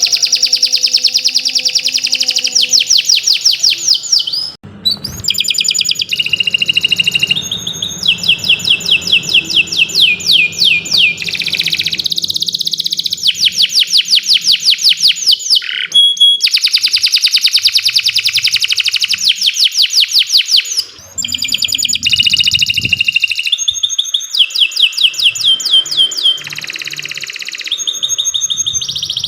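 Domestic canary singing a long, nearly unbroken song of fast trills, each a run of quick down-slurred whistled notes, with short breaks about five and twenty-one seconds in.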